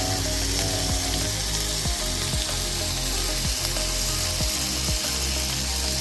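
Marinated chicken skewers sizzling steadily as they cook, with small crackles and ticks every half second or so.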